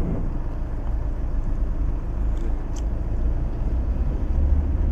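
Steady low rumble of a running vehicle engine or passing road traffic, swelling slightly near the end, with two faint ticks about two and a half seconds in.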